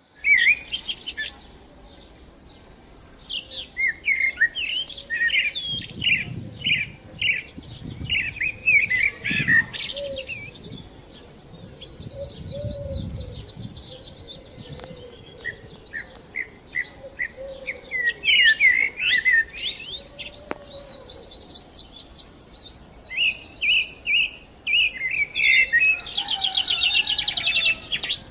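Small birds chirping and singing in many short, quick calls, with a fast trill near the end.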